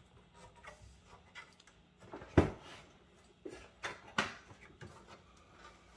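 Clatter of desktop PC case parts being handled and taken apart: a few sharp knocks, the loudest about two and a half seconds in and two more near four seconds, with lighter clicks and scrapes between them.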